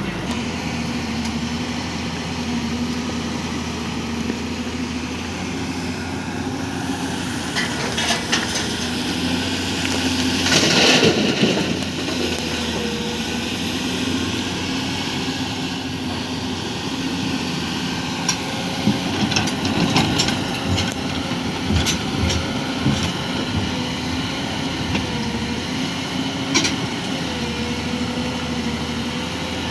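Excavator's diesel engine running steadily, with scattered clanks and knocks of the machine at work and a louder burst of noise about eleven seconds in.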